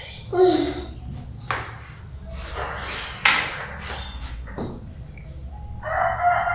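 A few sharp knocks and clatters of kitchen handling, then a rooster starts to crow near the end.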